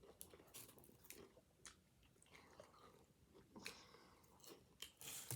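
Faint chewing of salad close to the microphone: a scatter of soft crunches and mouth clicks, a little louder near the end.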